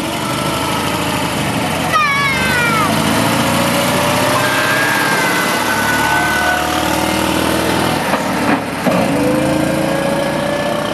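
Engine of an open vintage car running as it drives off and passes close by, its pitch sliding down and up as it changes speed.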